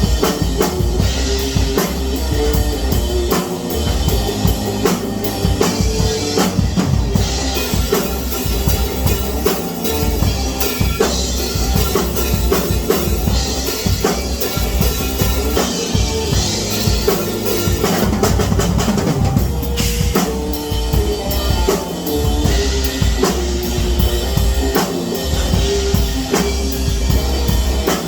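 Music led by a drum kit playing a steady, busy beat of kick, snare and cymbals, over bass notes and other pitched instruments.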